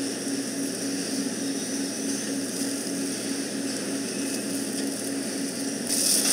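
Steady machine hum with a low tone that pulses about three times a second over a constant hiss; the hiss gets louder near the end.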